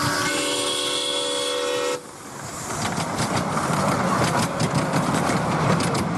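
Miniature steam locomotive's chime whistle blowing a chord of several tones for about two seconds, cut off sharply. It is followed by the train running, with steam exhaust and the clatter of wheels on rail building up and then holding steady.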